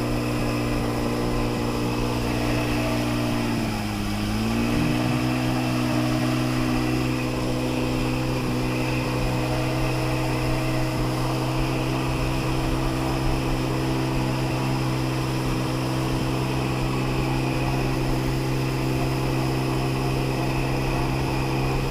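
Sea-Doo XP jet ski engine running steadily, with a steady hiss over it. Its pitch dips briefly about four seconds in and then comes back up.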